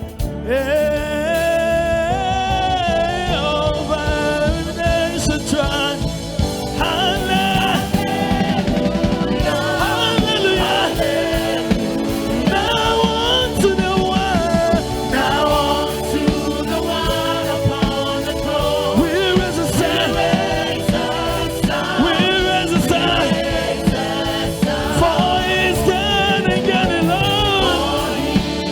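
Live gospel worship music: voices singing over a steady band accompaniment.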